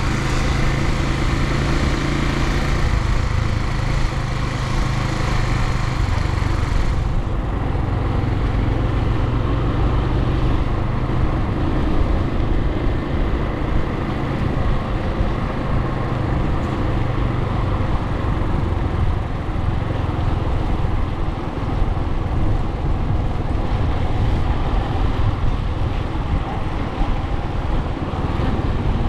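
Suzuki TU250x's single-cylinder engine running steadily under way, with wind and road noise over it. The upper hiss eases about seven seconds in.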